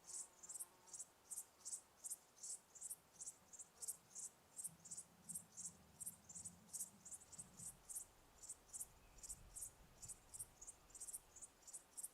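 Cricket chirping in a steady, even rhythm of about three to four short high chirps a second, faint. A soft low rumble underlies the middle of it.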